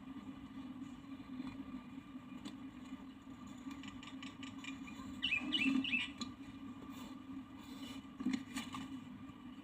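Small bird giving a quick cluster of high squeaky chirps about halfway through, with a few fainter chirps and clicks later, over a steady low hum.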